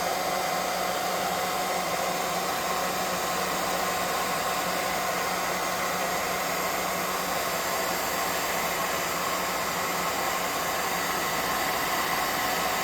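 Hot air gun blowing steadily, a constant rushing hiss with a faint motor hum, drying wet paint on a miniature.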